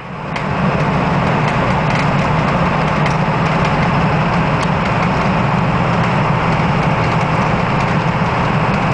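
In-cab sound of a 2000 Ford E450 bus driving at a steady speed: the 7.3-litre Power Stroke V8 turbodiesel's steady drone under an even wash of road noise.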